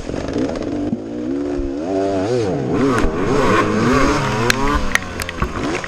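Enduro dirt bike engine revving up and down repeatedly, with several sharp knocks in the second half.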